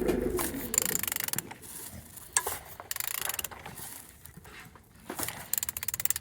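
Ratchet wrench clicking in short runs of rapid clicks as an engine's crankshaft is turned over by hand, a check that the engine turns and has compression.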